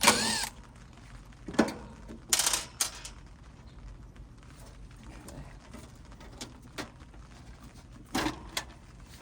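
Intermittent hand-work noises on the heat pump's metal cabinet: a sharp squeak at the start, a click, a short rattle, and a couple more clicks near the end, as screws are worked on its panel.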